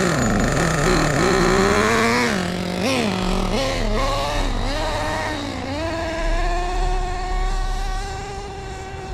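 Small nitro glow engine of a Redcat Earthquake RC car revving up and down with a few quick blips, then holding a steady high whine from about six seconds in.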